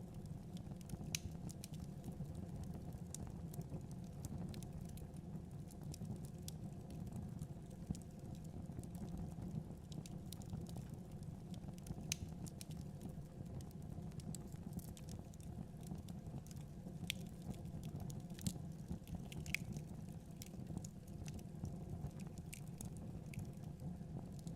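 Wood fire burning in a fireplace: a steady low rumble of flame with scattered sharp crackles and pops at irregular intervals.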